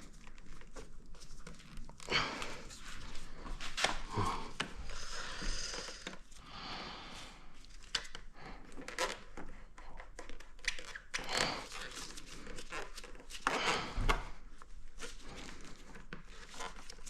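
Hand-work noises: irregular clicks, scrapes and rustling as plastic parts are pulled and worked at with tools.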